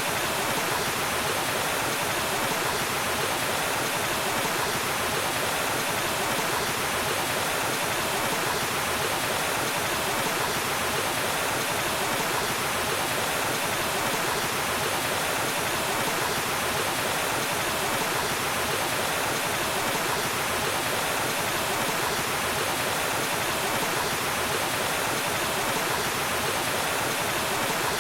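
Waterfall: falling water rushing and splashing steadily, without a break.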